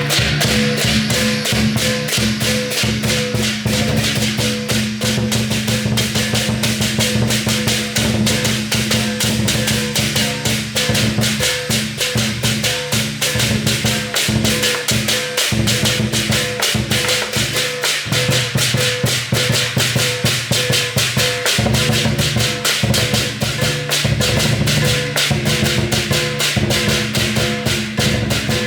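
Chinese lion dance percussion: drum and cymbals beating a fast, steady, unbroken rhythm, with gong-like ringing tones sustained underneath.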